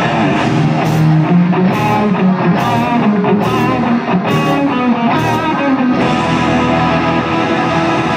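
Rock music led by electric guitar over drums, with a cymbal struck about every second through the first half; the texture changes about six seconds in.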